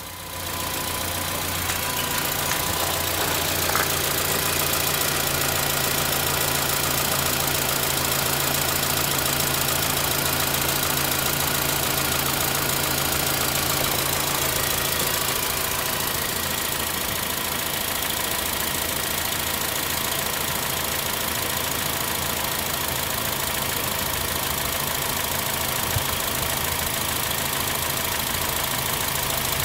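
A 2008 Honda CR-V's 2.4-litre i-VTEC four-cylinder petrol engine idling steadily.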